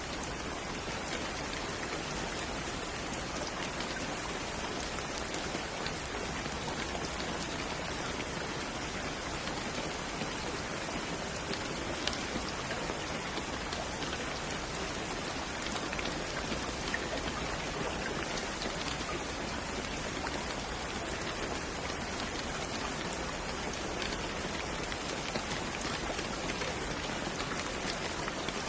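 Steady rain falling: an even hiss with scattered drop ticks and no change in strength.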